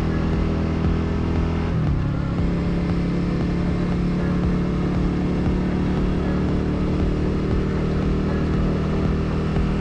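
Yamaha TW200's single-cylinder engine running steadily while riding; its note changes abruptly about two seconds in, then holds steady.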